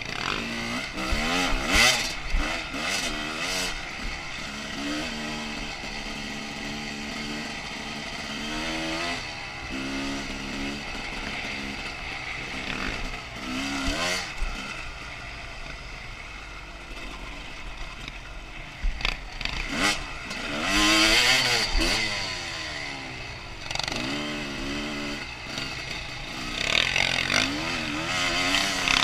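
2001 Honda CR250's single-cylinder two-stroke engine revving up and down over and over as the dirt bike is ridden off-road, with a few louder, higher-pitched surges of throttle.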